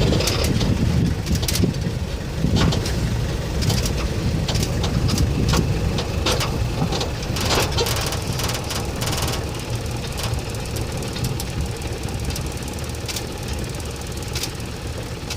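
Safari jeep's engine running at idle, a steady low rumble, with scattered clicks and knocks.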